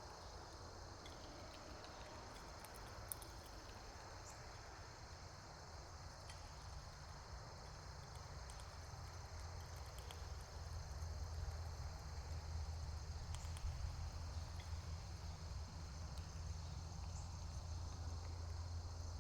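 Steady high-pitched chorus of insects, with a low rumble underneath that grows louder about halfway through and a few faint ticks.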